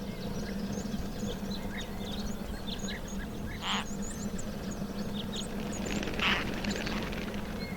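Many small birds chirping in quick, high, short notes throughout, with two short hissing bursts about four and six seconds in, over a steady low hum.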